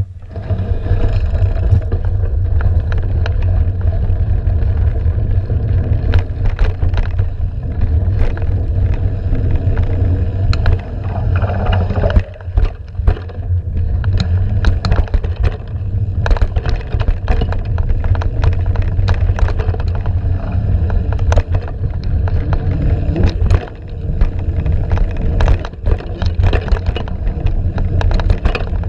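Mountain bike descending a dirt trail: wind buffets the microphone with a heavy low rumble, under frequent sharp clattering knocks as the bike rattles over rough ground. The rumble eases briefly twice, about twelve seconds in and again near the end.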